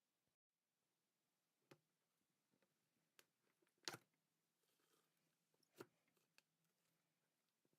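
Near silence with a few faint, sharp taps and clicks of small objects being handled, the loudest about four seconds in.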